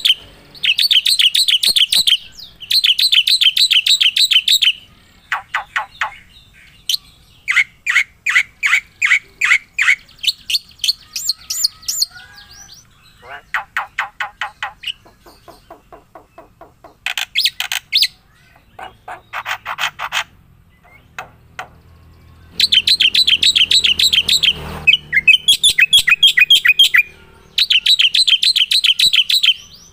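A songbird singing close by: long runs of rapid trills and repeated chirped notes, with short pauses between phrases.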